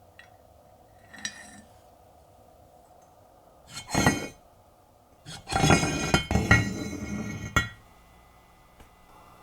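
Metal parts of a hand-cranked meat chopper clinking and clattering as it is taken apart. There is a light clink about a second in and a louder clank around four seconds, then a rattling clatter of about two seconds that ends in a sharp knock.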